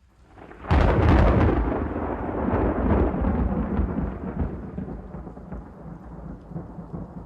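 A thunderclap: a sudden crack about a second in, then a long rolling rumble that slowly fades.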